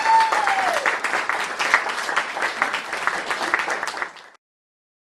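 Audience applauding, with one long rising-and-falling whoop over the first second. The applause cuts off abruptly about four seconds in.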